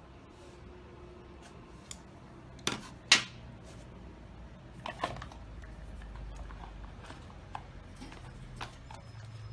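Scattered sharp clicks and knocks of electric-fan parts being handled and fitted back together during reassembly, the loudest knock about three seconds in.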